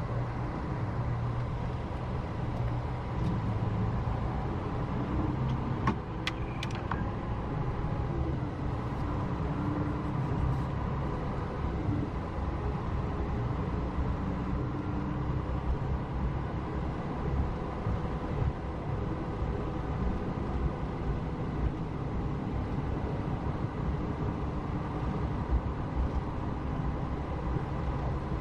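Double-decker coach on a Scania chassis running, a steady low engine and road rumble. A few sharp clicks come about six seconds in.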